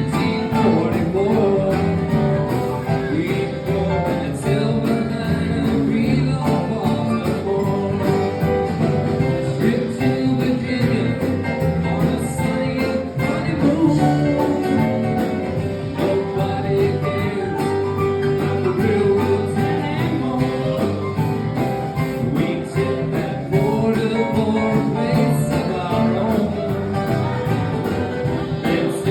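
Live acoustic song: guitar played with a voice singing over it, in a country or folk style.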